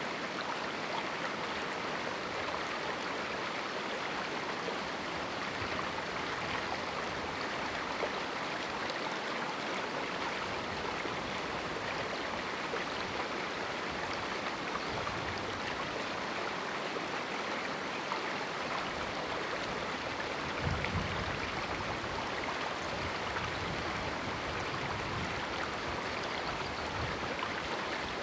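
River water rushing and splashing over rocks in a small canyon, a steady, even flow. Some faint low rumbles come in during the second half, one a little louder about two-thirds of the way through.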